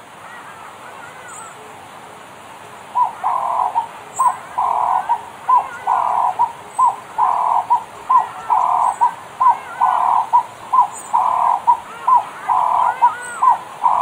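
A bird calling in a steady rhythmic series from about three seconds in, a short note followed by a longer one and repeating about every second and a bit. Fainter chirping of other birds runs behind it.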